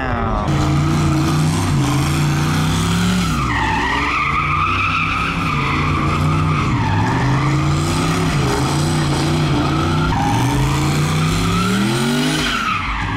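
A truck doing a burnout: its engine is held at high revs, sagging and climbing again several times, while the spinning tires squeal.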